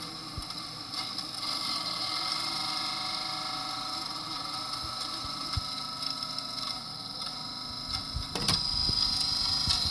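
VCR rewinding a VHS tape: a steady mechanical whir with several held tones. About eight and a half seconds in come a few sharp clicks, and the whir turns louder with a high whine.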